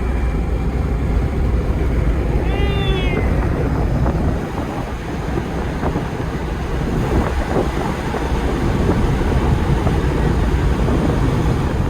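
1992 Mitsubishi Pajero turbo diesel cruising at highway speed, heard from inside the cabin: a steady low rumble of engine, tyres and wind. About two and a half seconds in there is one brief high-pitched squeak that rises and falls.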